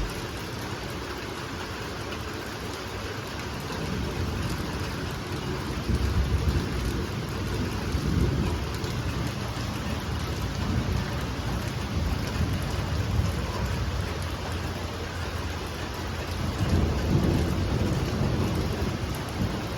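Heavy rain pouring steadily. Deep low rumbles swell up several times: about six seconds in, again around eight seconds, and once more near the end.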